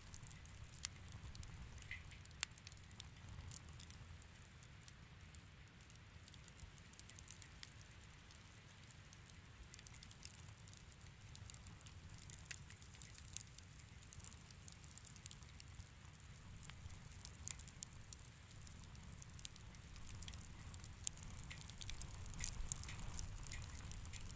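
Wood fire crackling in a fireplace: faint, irregular small pops and snaps over a low, steady rumble, with the pops coming thicker near the end.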